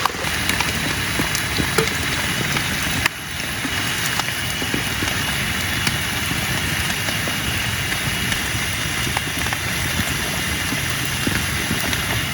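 Heavy rain falling steadily, with scattered drop taps and a brief dip in level about three seconds in.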